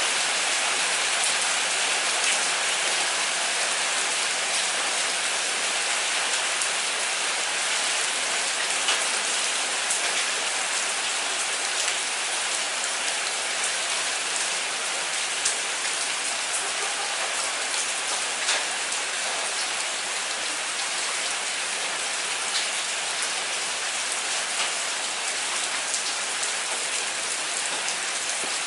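Steady moderate rain falling: a continuous hiss with scattered sharper drop taps, easing slightly toward the end.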